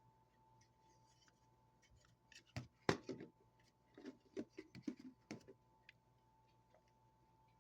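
A run of light clicks and knocks, handling noise, from about two to five and a half seconds in, over a faint steady high hum.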